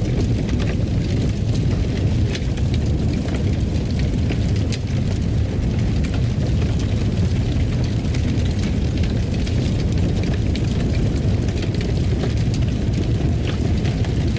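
Wood fire in a fireplace burning: a steady low rumble with frequent small crackles and pops scattered through it.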